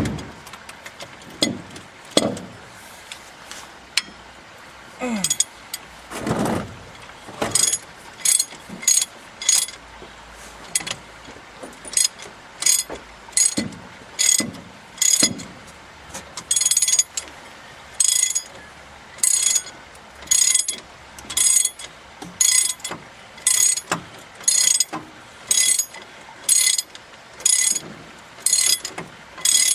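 Hand ratchet turning a nut off, its pawl clicking in short bursts on each back-swing, about two bursts a second with brief pauses, starting about a quarter of the way in. Before that come a few metal clanks and knocks.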